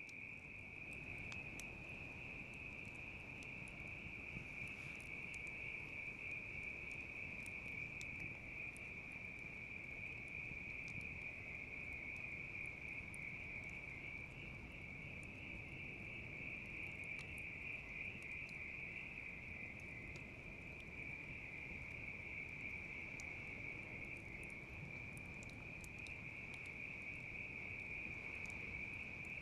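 Bell crickets (suzumushi) trilling in a continuous high-pitched chorus, with sparse faint crackles of a wood fire underneath.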